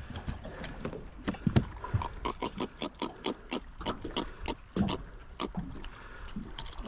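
A freshly landed giant trevally grunting out of the water: a quick, irregular run of short pulses, several a second.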